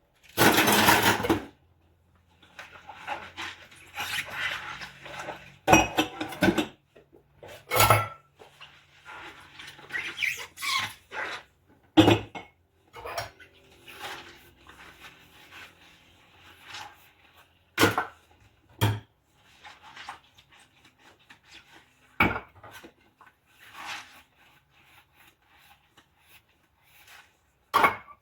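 Dishes being washed by hand: plates and cutlery clink and knock together about a dozen times, with stretches of scrubbing and rubbing between the knocks.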